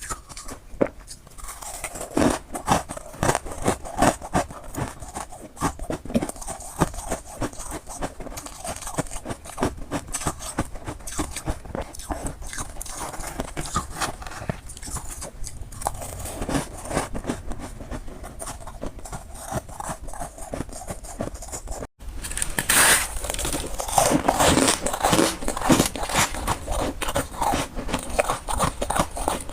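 Close-up biting and chewing of crunchy freezer frost ice: a dense run of irregular crunches, cutting out for a moment about two-thirds through and then coming back louder.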